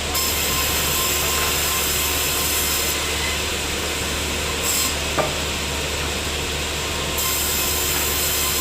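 Sawmill saw running steadily through a teak log, with a high hiss that comes and goes in stretches. A single sharp click about five seconds in.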